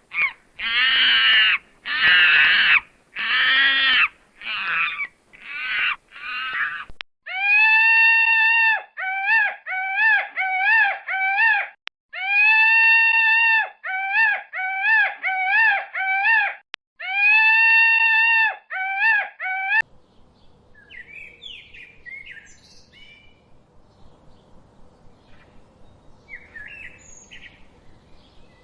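A run of different animal calls. First come harsh, loud repeated calls. Then a clear pitched call, a long note followed by several short wavering notes, is repeated three times. Near the end it gives way to faint scattered bird chirps over a quiet outdoor background.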